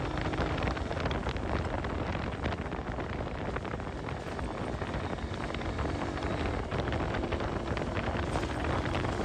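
Wind buffeting a motorcycle-mounted camera's microphone, with the motorcycle's engine running underneath at a steady level.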